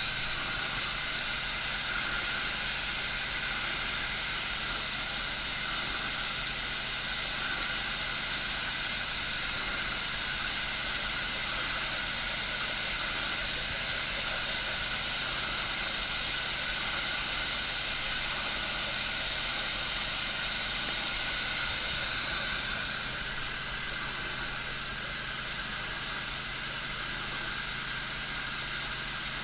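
Steady hiss of water escaping under pressure from the water line, over a low steady engine hum; the hiss eases a little about 23 seconds in.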